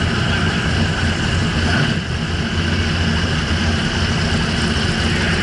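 Fuel-injected HQ Holden drag car engine idling, a loud steady lumpy rumble with no revving.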